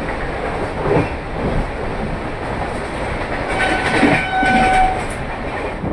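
Steady running noise of a moving passenger train heard from inside a general-class coach. About three and a half seconds in, a train horn sounds one steady note for just over a second.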